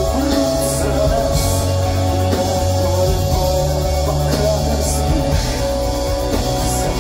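Live pop-punk rock band playing an instrumental passage with electric guitars and drums, a few cymbal crashes, loud through a club PA.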